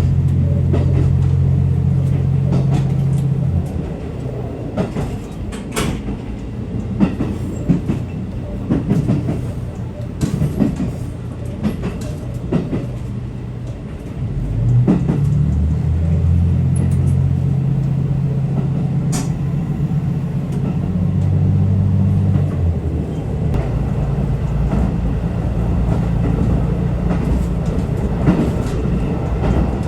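Train running: a steady low hum that shifts in pitch in steps, quieter for a stretch early on and then stronger again, with scattered clicks and clatter from the wheels and rails.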